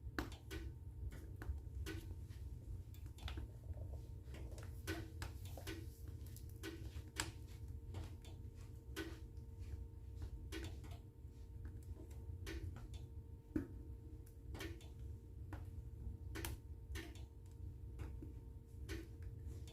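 Wood fire in a fireplace crackling, with irregular sharp pops and snaps over a steady low rumble. A soft, even tick repeats a little faster than once a second underneath.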